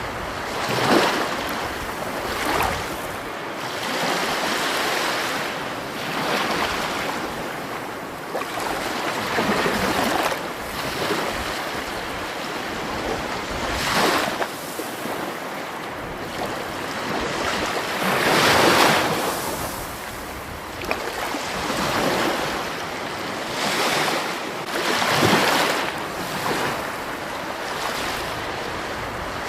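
Water rushing steadily, swelling into louder surges every few seconds at irregular intervals; the biggest surge comes about two-thirds of the way through.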